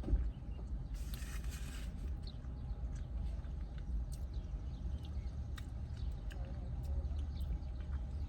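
Close-up chewing and mouth sounds of someone eating a bagel sandwich: small wet clicks throughout and a short crunchy rustle about a second in, over a steady low rumble.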